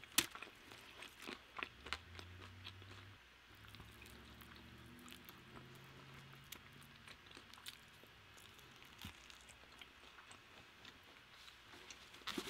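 Close-up biting and chewing of a Korean fried chicken wing, the crispy fried coating crunching and crackling faintly in the mouth.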